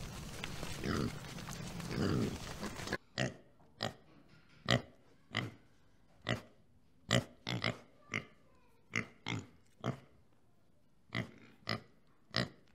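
A few low grunts from a resting pig over a background hiss, then a sudden change to a warthog crunching feed off the ground close up: sharp, separate crunches about one or two a second, with short pauses.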